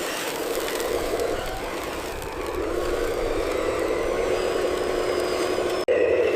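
Steady whirr of a remote-control truck's motor running, with a brief dropout near the end.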